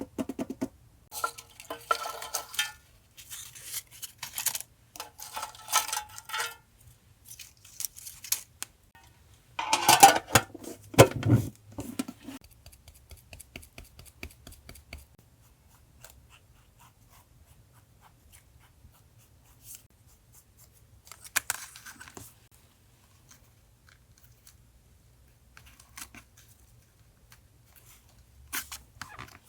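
Scissors cutting paper in several runs of quick snips, followed about ten seconds in by a louder burst of paper handling with a low thud. After that there are only a few scattered light clicks and taps.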